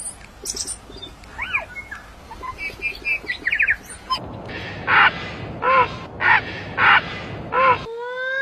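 Calls of different birds in sequence. First come scattered chirps, short whistles and quick trills. About four seconds in come five loud, harsh, crow-like calls evenly spaced about two-thirds of a second apart. Right at the end, a clear call begins that rises and then bends down.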